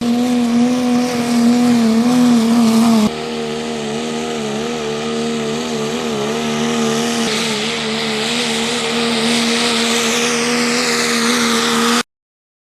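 Turbo diesel pulling trucks running hard under load, a loud steady high engine note that wavers slightly. The sound changes abruptly twice, as if spliced from separate runs, and cuts off suddenly near the end.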